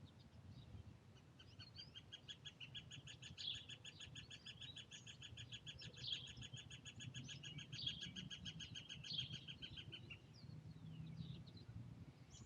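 Birds: a long, even, rapid trill that starts about a second in and stops after about eight and a half seconds, with scattered short chirps around it.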